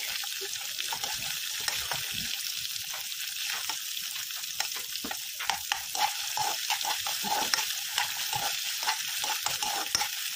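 Onions, green chillies and garlic sizzling in hot oil in a non-stick kadai, with a steel spoon scraping and knocking against the pan in quick, irregular strokes as it stirs.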